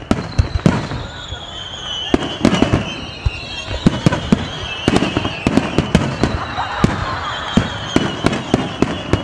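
Aerial firework shells launching and bursting: a rapid, irregular series of sharp bangs, about two a second.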